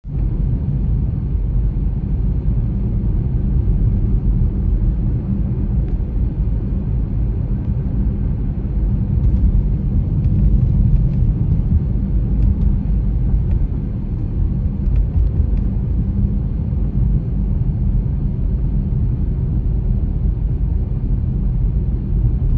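Blizzard wind buffeting the microphone: a loud, continuous low rumble that rises and falls slightly with the gusts.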